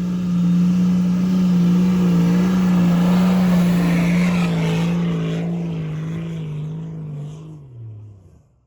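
4WD engine held at high revs, working hard to climb a soft sand dune, with a steady high note. About three-quarters of the way through, the revs drop away, then the sound cuts off.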